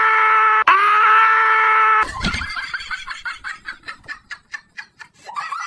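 Animal-like cries, most likely dubbed-in sound effects for the prank's invisible dog. There are two long steady cries of over a second each, then from about two seconds in a fast run of short yelps, several a second, ending on rising squeals.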